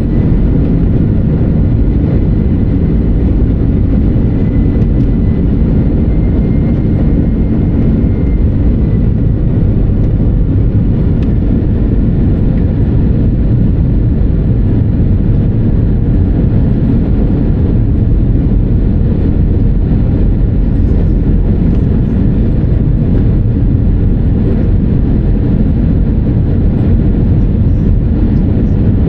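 Steady low cabin rumble inside an Airbus A319-100 from its engines and the airframe, with a faint thin whine in the first several seconds.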